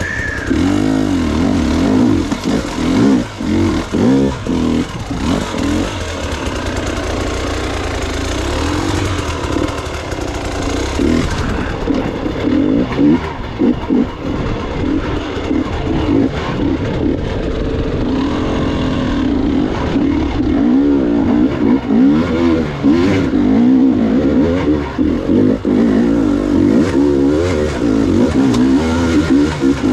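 Gas Gas EX 300 two-stroke single-cylinder dirt bike engine revving up and down continuously as it is ridden over rough trail, the throttle opening and closing every second or so.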